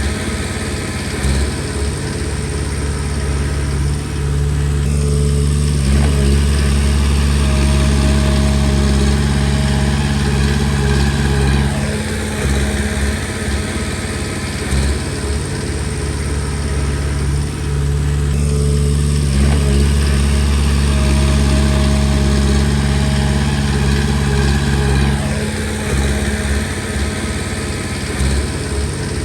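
Komatsu D20P bulldozer's diesel engine running under load. It swells and eases in repeated cycles, with short dips every six to seven seconds.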